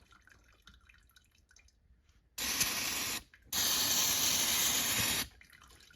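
Aerosol can of brake cleaner sprayed in two blasts, a short one then a longer one of about two seconds, hissing into a snowmobile chain case to flush out grime and metal bits.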